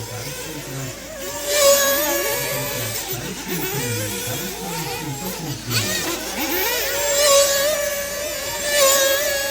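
Several 1/8-scale nitro off-road RC cars' small glow engines racing, revving up and down in overlapping high-pitched whines that swell and fade as the cars pass.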